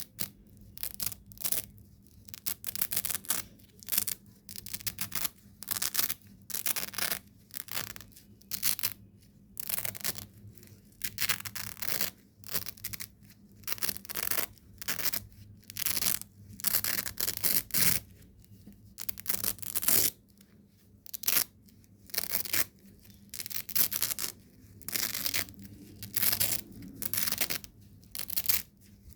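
Velcro hook-and-loop fastener being ripped apart again and again, one crunchy rasping tear about every second, with short quiet gaps between.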